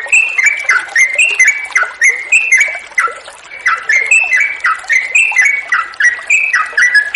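Yellow-vented bulbul (trucukan) singing in a long, unbroken run of quick bubbly phrases, a few notes a second, with a faint hiss of running water underneath.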